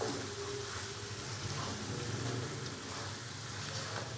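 Spiced chicken pieces sizzling steadily in oil in a non-stick kadai while being stirred and bhuna-fried with a silicone spatula, with a few faint scrapes of the spatula.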